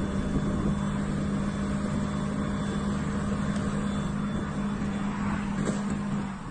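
A vehicle engine running at a steady speed, giving a steady hum that holds one pitch until it cuts off near the end.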